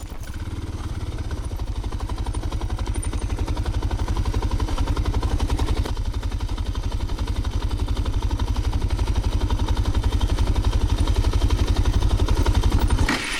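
Motorcycle engine running steadily at low speed on a trail ride, carrying two riders and gear; it cuts off abruptly near the end.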